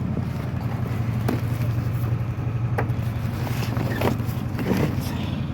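Narrowboat engine idling steadily with a low, even pulse, with a few short knocks and clatters over it.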